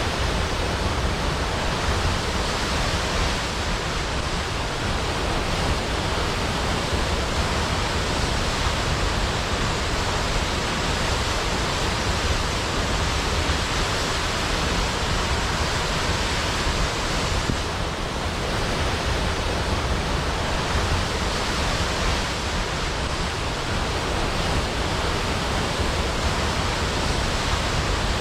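Large waterfall crashing into a pool: a steady, full rush of falling water with a deep low rumble.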